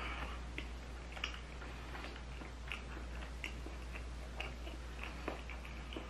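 Close-up mouth sounds of someone chewing a mouthful of chewy rice cakes in sauce with melted cheese: irregular soft, wet clicks and smacks, about two a second.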